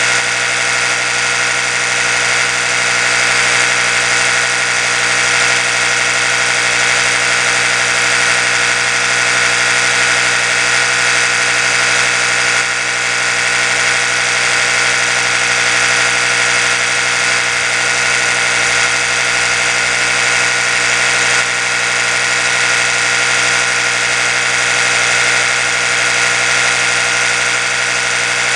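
Oral-B electric toothbrush running continuously, a steady unchanging motor buzz.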